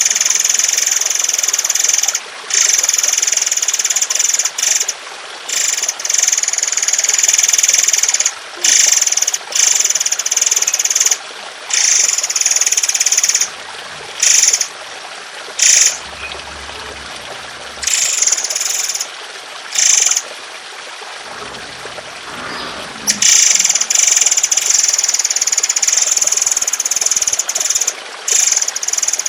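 Bird-song training recording: a songbird's harsh, rapid, high-pitched song in long phrases of a few seconds each, broken by short pauses, with a quieter stretch in the middle, over a steady trickle of water.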